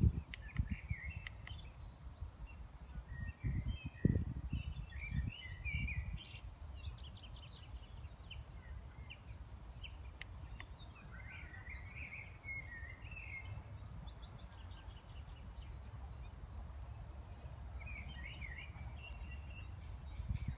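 Small songbirds singing in short chirping phrases, over wind buffeting the microphone in low gusts, strongest at the start and about four seconds in.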